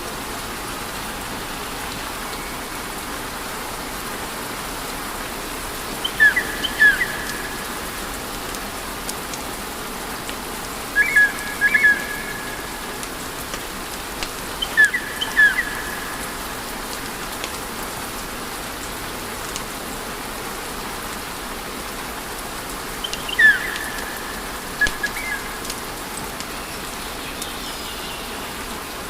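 Wood fire burning in a fireplace with a steady hiss and faint crackle. Four times it is broken by a cluster of short, high-pitched chirps, the loudest sounds here.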